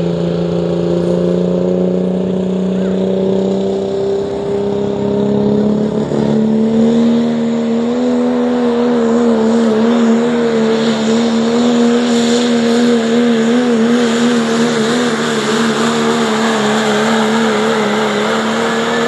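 1997 Dodge Ram pull truck's engine at full throttle, dragging a sled down the pulling track. Its pitch climbs steadily over the first six or seven seconds, then holds high and wavers for the rest of the run.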